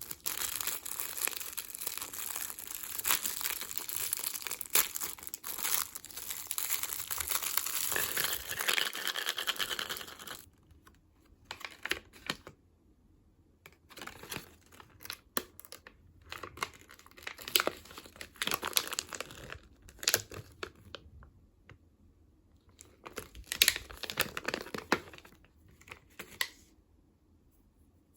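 Plastic snack wrapper crinkling and tearing as it is opened: continuous crackling for about ten seconds, then in short separate bursts of rustling.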